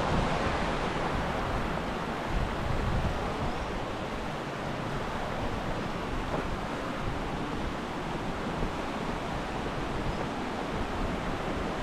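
Steady rush of flowing water from the waterfall and its stream, with wind buffeting the microphone, strongest near the start.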